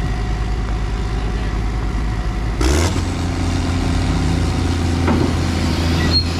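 A heavy diesel engine running steadily. About three seconds in there is a short clatter and the engine note steps up to a higher pitch.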